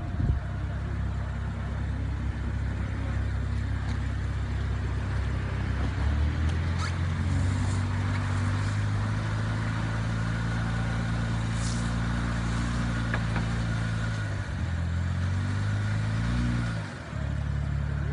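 BMW X4's engine pulling at low speed as the car crawls over log ramps with one wheel in the air. The revs step up about six seconds in and hold, waver, then drop sharply near the end. The engine is working under load while the all-wheel drive sends power to the wheels that still have grip.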